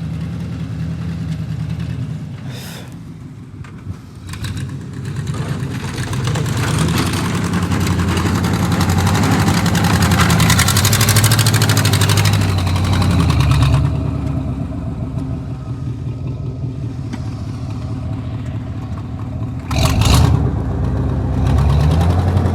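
Vehicle engine running, then revving up and working harder for several seconds in the middle with a rushing noise over it, before settling back. A sharp knock comes about twenty seconds in.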